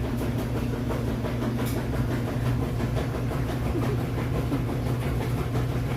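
A steady, low mechanical hum under a constant noisy rumble, with faint ticks over it.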